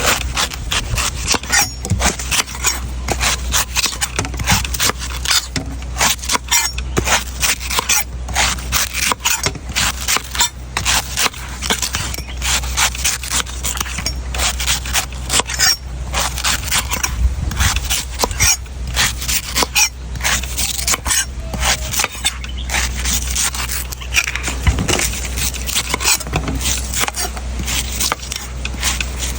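A knife chopping and scraping a coconut in quick, repeated strokes, sharp strike after strike, over a steady low hum.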